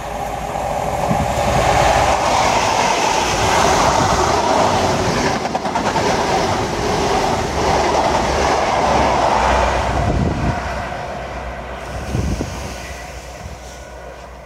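A train passing close by on the seawall railway line: its noise builds over the first couple of seconds, stays loud for about eight seconds, then fades away.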